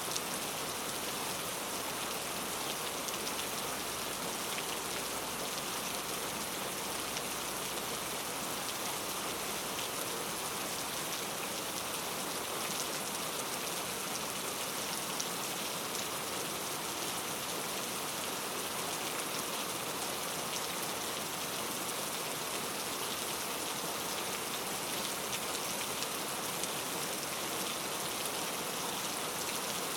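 Steady rainfall on rainforest foliage: an even hiss of rain with many small drop patters scattered through it.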